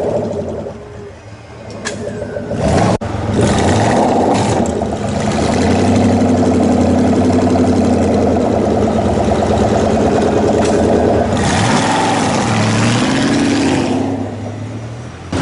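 A high-performance car engine running loudly with a steady low note, then blipped up and down in pitch a couple of times before fading away.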